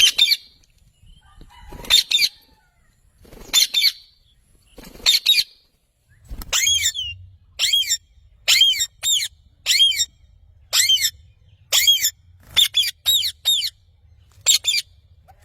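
Pet parrot screeching in short, shrill, warbling calls, at first about every one and a half seconds, then quicker, about two a second, from around six seconds in.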